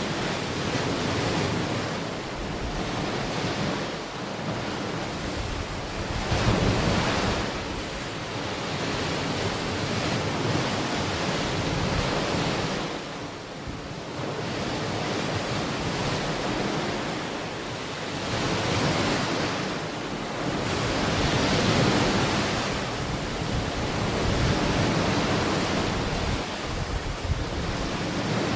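Ocean waves washing onto a beach, a steady surf that swells and eases every few seconds, with some wind on the microphone.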